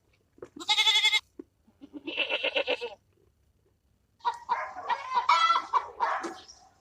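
Two short bleats from a farm animal, the second one wavering, then chickens clucking busily from about four seconds in.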